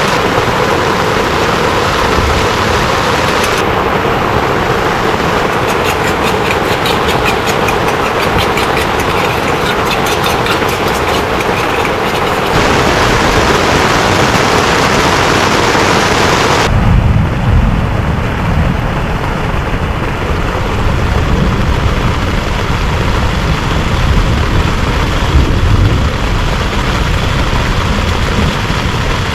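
Heavy rain falling steadily. A little over halfway through, the sound changes abruptly from a bright hiss to a deeper, duller rumble.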